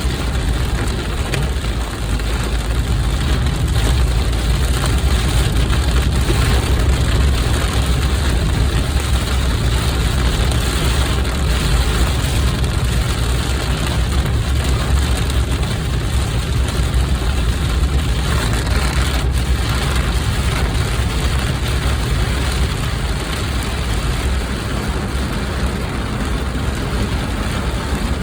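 Heavy rain falling on a car, over a steady low rumble of the car's engine and road noise.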